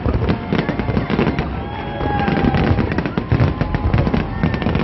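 Large fireworks display: a dense, continuous crackle of many small bursts over a deep rumble of exploding shells.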